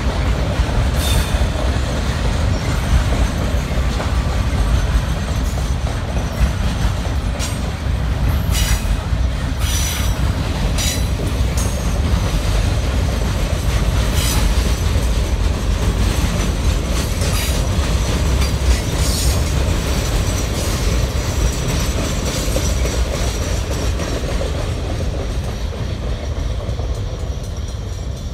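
Norfolk Southern Triple Crown RoadRailer trailers rolling past on their rail bogies: a steady low rumble, with scattered clicks and short squeals from the wheels on the rails. The sound fades near the end as the last trailer goes by.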